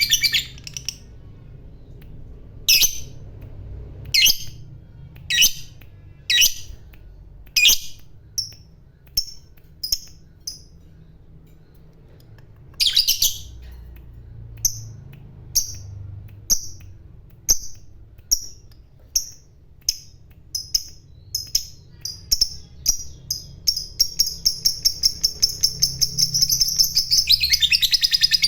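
Lovebird giving sharp, high single calls about a second apart. The calls speed up into a fast, continuous chattering run near the end: the long 'ngekek' call prized in fighter lovebirds.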